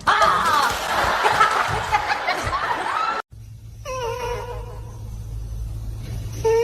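Cat meowing with people laughing, cutting off suddenly about three seconds in. A long, drawn-out animal cry follows over a steady low hum.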